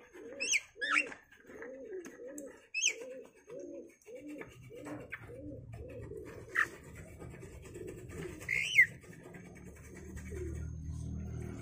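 A pigeon cooing: a quick run of low coos, about two a second, that stops after about four seconds. Short sharp chirps from a smaller bird sound over it throughout. From about halfway a low steady hum sets in.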